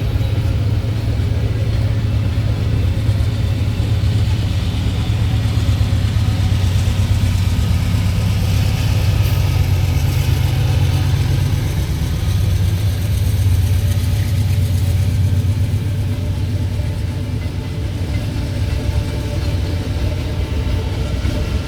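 Empty iron-ore freight train passing, a loud, steady low rumble with a continuous hum.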